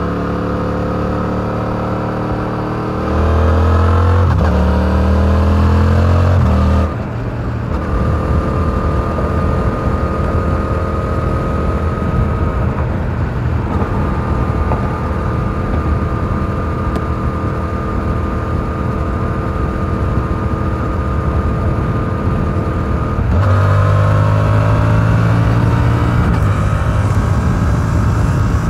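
Stock exhaust of a 2022 Yamaha R7's 689 cc parallel-twin under way. It pulls up through the revs with a gear change about four seconds in, then the throttle rolls off about seven seconds in. It holds a steady cruise, then accelerates hard again near the end with another upshift.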